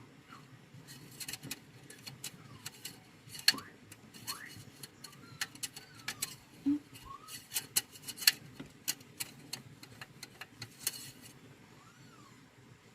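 Irregular sharp clicks and light clinks, with a few faint short chirps among them. The clicks stop about eleven seconds in.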